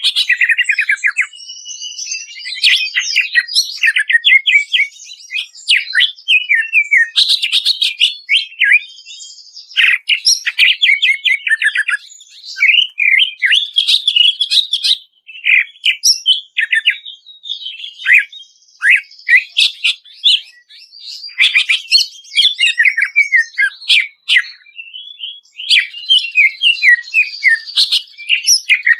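Cucak ijo (greater green leafbird) singing loudly and continuously: a rapid, varied song of fast trills, sharp sliding whistles and chattering phrases that follow one another with only brief pauses.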